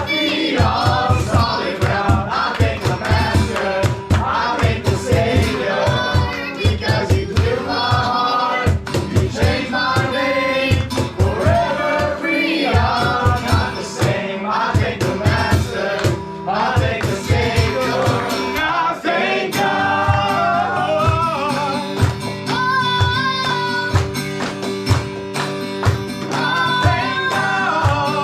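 Worship song with several voices singing together over a steady beat.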